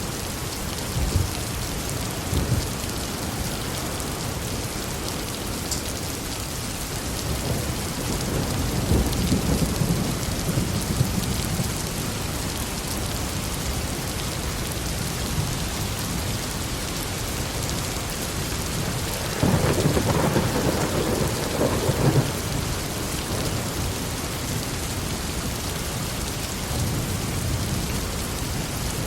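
Heavy rain falling steadily with thunder rumbling low a few times. A louder, sharper thunderclap comes about two-thirds of the way through.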